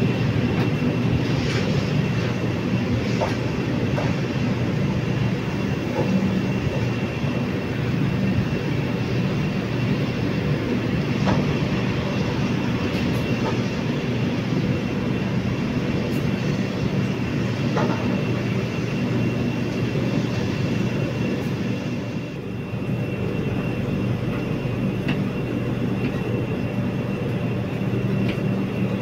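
An LHB passenger coach running along the track, heard from its doorway: a steady rolling rumble with a faint steady whine above it and a few scattered sharp clicks.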